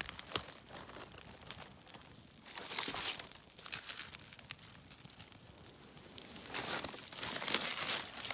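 Dry birch bark crinkling and tearing as it is handled, in two spells of rustling with a few sharp crackles near the start.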